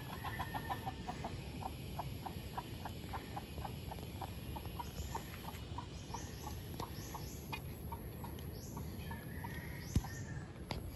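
A bird calling in a long run of short, even clucking notes, about four a second, that fade out after about seven seconds. Small birds chirp higher up in the second half, and a single sharp click sounds near the end.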